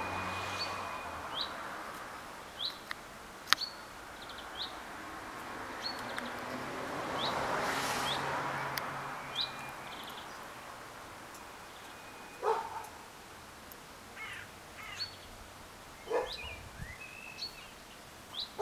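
A small bird repeating a short high chirp about once a second, over a soft rushing background that swells and fades around the middle. A dog barks a few times in the second half.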